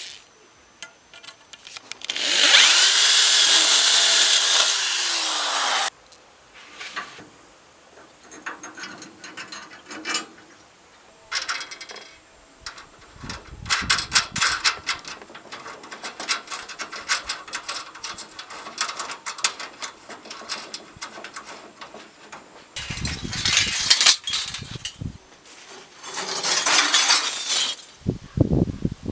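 Power tools used in short runs. A long loud run starts about two seconds in and stops sharply about four seconds later, and two more bursts come near the end. In between there is a good deal of tapping, clicking and clattering of parts being handled.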